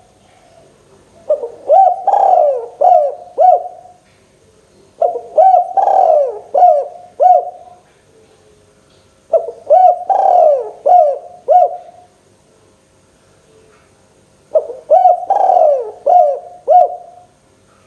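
Spotted dove (local tekukur) singing its cooing song in four phrases, each a run of several low coos a few seconds apart.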